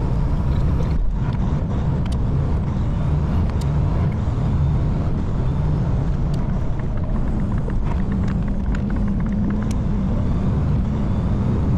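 Semi truck's diesel engine and road noise, heard steadily from inside the cab while driving.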